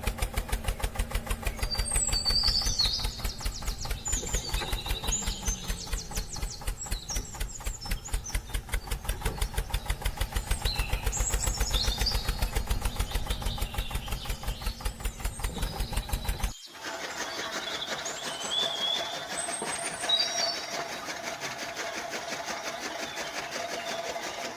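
Small electric motor of a homemade model chaff cutter machine running with a fast, even rhythmic knocking. About two-thirds of the way in it cuts off abruptly to a quieter steady hum with a faint whine, while high chirps sound throughout.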